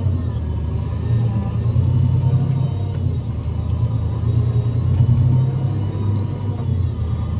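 Diesel engine and road noise of a Scania Irizar i5 coach under way, heard from inside the cabin: a steady low rumble that swells and eases slightly.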